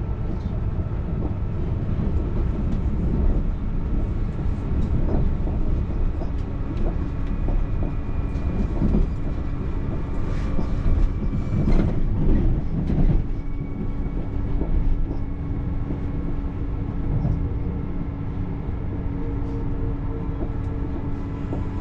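TER regional train running along the track, heard from on board: a steady low rumble with a constant whine, and a cluster of louder knocks and rattles about halfway through.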